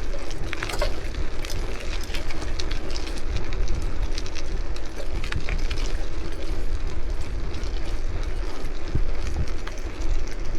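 Wind rumbling on the microphone while cycling, with scattered clicks and rattles from the bike throughout.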